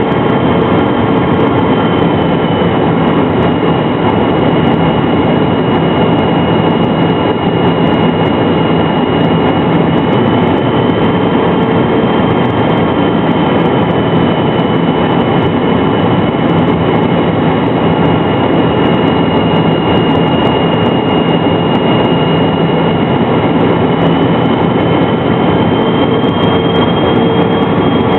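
McDonnell Douglas MD-83's rear-mounted Pratt & Whitney JT8D engines running steadily. The sound is a loud continuous rush with a high engine whine that drifts slightly up and down in pitch.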